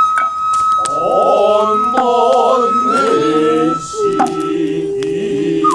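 Noh performance: the nohkan bamboo flute holds one long high note, dropping to a slightly lower note near the end, over male voices chanting in the slow, wavering noh style. A few sharp strokes, typical of the noh hand drums, cut in now and then.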